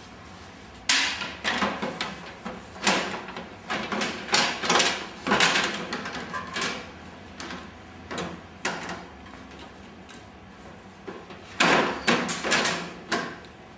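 Knocks, clunks and scrapes of a display stand's zigzag battery-holder component being fitted against its perforated metal base. There are many separate knocks in the first half and another cluster near the end.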